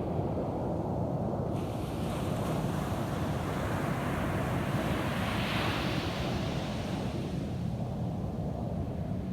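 Ocean surf: a wave breaks and washes up the beach, its hiss setting in about a second and a half in, swelling to a peak around the middle and fading near the end, over a steady low rumble of wind on the microphone.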